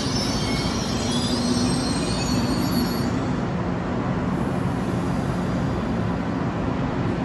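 Trenitalia Frecciarossa high-speed train rolling slowly to a halt, its wheels and brakes squealing with high tones that die away about three seconds in. A steady low hum and rumble from the train carries on after the squeal stops.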